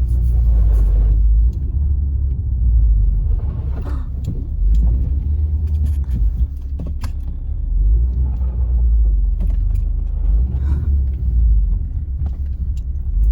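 Steady low rumble of a car being driven, heard from inside the cabin, with scattered small clicks and knocks.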